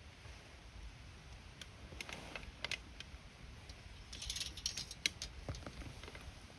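Wood campfire crackling: scattered sharp pops and snaps, with a quick flurry of crackles a little past the middle, over a low steady rumble of the burning fire.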